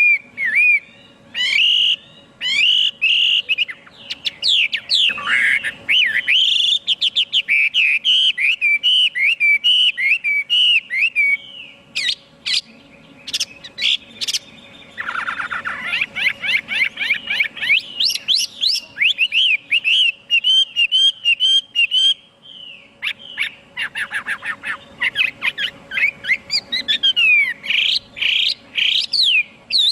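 A Chinese hwamei singing a long, unbroken song of fast, varied whistled phrases. Many notes slide up and down, and there are quick trilled runs around the middle and again about two-thirds of the way through.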